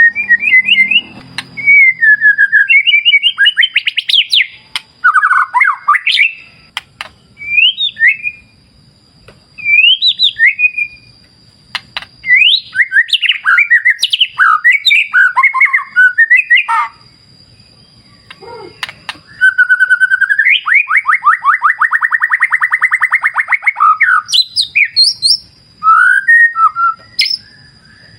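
White-rumped shama (murai batu) singing loud, varied phrases of whistles and fast trills in bursts with short pauses, including one long fast trill about two-thirds of the way through. A thin steady high tone runs underneath.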